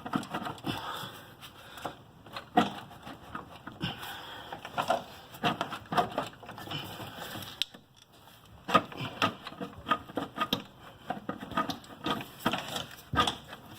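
Irregular clicks, knocks and rattles of plastic intake parts and hand tools being worked, as the engine's air intake cover assembly is pried loose, with a short lull about eight seconds in.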